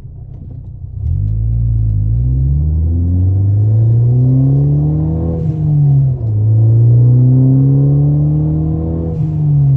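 Ford Focus ST's turbocharged 2.0-litre four-cylinder, breathing through an AWE Track catback exhaust, accelerating hard. The exhaust note climbs in pitch, drops at an upshift about six seconds in, climbs again, and drops at a second shift near the end.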